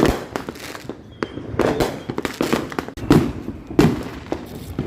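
Consumer fireworks going off: a rapid string of loud bangs with crackling between them, roughly one every half second to a second.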